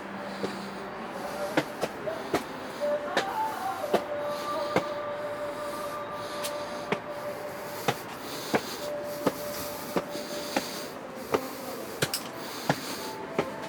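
Footsteps of a person walking, about one step every three-quarters of a second, over a steady background hiss. A faint steady tone is heard through the middle stretch.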